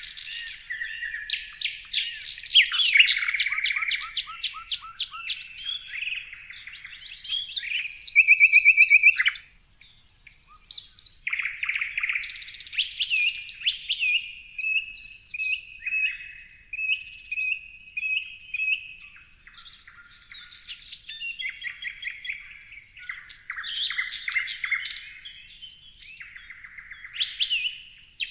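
A chorus of songbirds chirping and singing, with many overlapping short chirps, rapid trills and whistled notes of different kinds.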